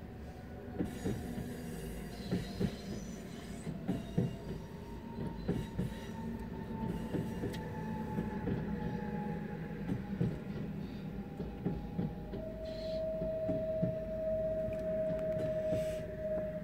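Electric multiple-unit passenger train passing close by, its wheels clicking over the rail joints over a steady rumble. A thin steady whine drifts slightly down in pitch and drops to a lower note about twelve seconds in.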